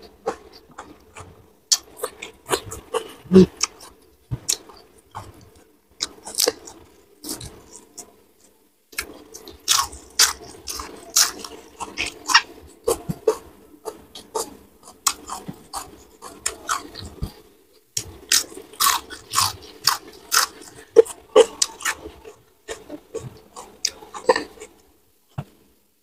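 Close-miked chewing and crunching of crispy deep-fried gourami: a dense run of irregular crunches and wet mouth clicks, broken by two short pauses.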